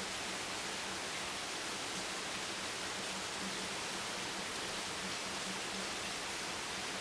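Steady rain: an even, unbroken hiss of falling rain with no single drops, thunder or other events standing out, and a faint low hum underneath.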